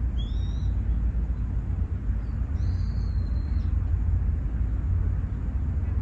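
Outdoor park ambience: a steady low rumble throughout, with a bird calling twice, a short high call near the start and a longer one about two and a half seconds in.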